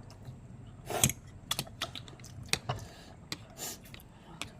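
Scattered light clicks and taps of cutlery against dishes during a meal, at an uneven pace, with one louder knock about a second in.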